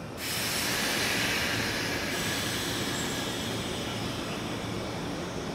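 A JR 185 series electric train starting to pull away from the platform: a steady hissing running noise that comes up just after the start and eases slightly.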